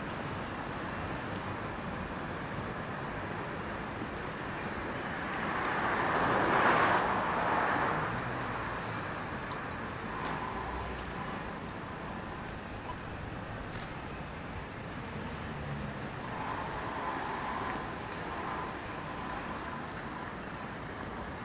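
Road traffic noise on a city street, with one vehicle passing close by and loudest about seven seconds in, and fainter traffic going by later.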